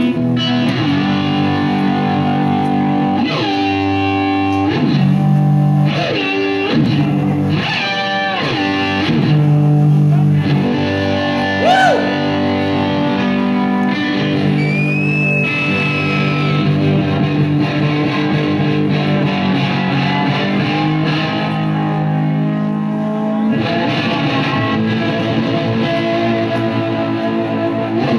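A rock band playing an instrumental passage live: distorted electric guitar run through effects, over bass, with sustained chords and notes that slide up and down in pitch.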